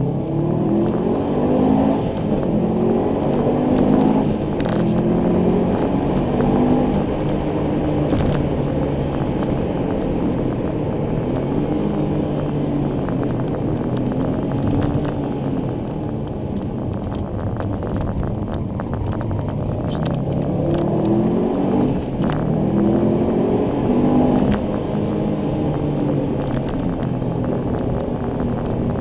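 Subaru Impreza WRX STI's turbocharged flat-four engine, heard from inside the cabin under way. The revs climb and fall repeatedly, with a strong rise in the first few seconds and another about twenty seconds in.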